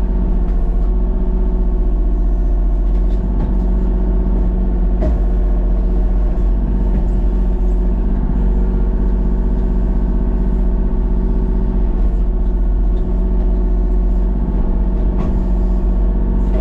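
Vehicle engine running steadily, a constant drone strongest in the low range.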